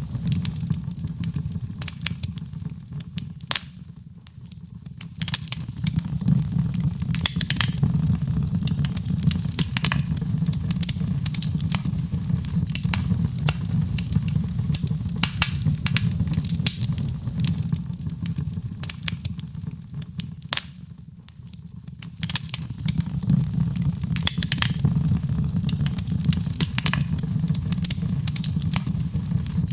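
Fireplace fire crackling, with frequent sharp pops over a steady low rumble. The sound sinks down briefly twice, about 4 and 21 seconds in, then returns.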